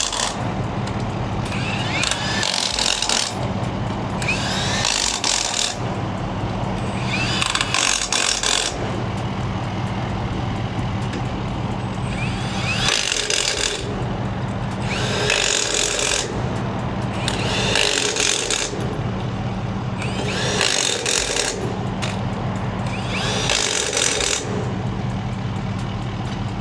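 Pneumatic impact wrench running lug nuts onto trailer wheels, in short whirring bursts about every two and a half seconds over a steady low hum.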